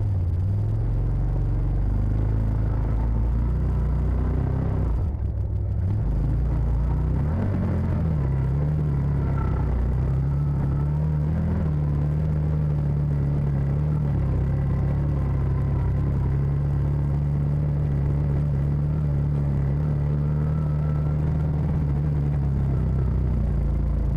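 CFMoto side-by-side engine running under load as it crawls up a steep trail in four-wheel drive with the front differential locked. Its pitch dips and wavers about five to seven seconds in, then holds steady.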